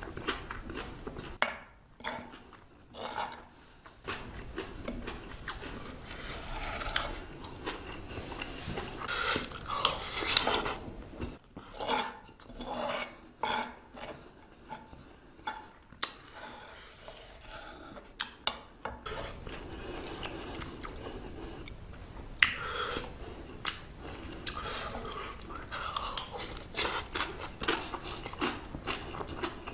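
Close-up eating sounds: a utensil clinking and scraping against an iron hot plate of stir-fried octopus fried rice, with chewing in between.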